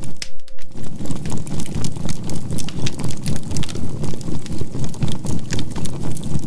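Charcoal fire crackling with many small, sharp pops, under a steady 528 Hz tone and a low hum whose loudness pulses evenly about three times a second: the binaural beat.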